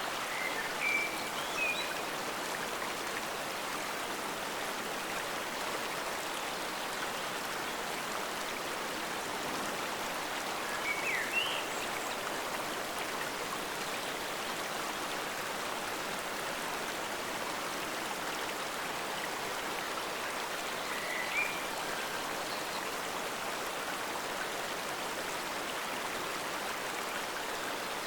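Forest stream flowing steadily, a constant even rush of water. A few short high chirps sound over it: a couple about a second in, one around eleven seconds and one around twenty-one seconds.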